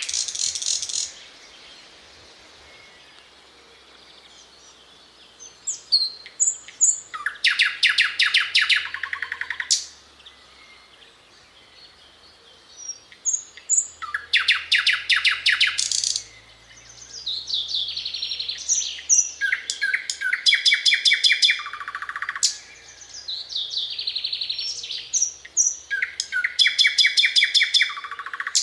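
Thrush nightingale singing: phrases of fast, evenly repeated notes and rattles, each lasting a few seconds, with short pauses between them.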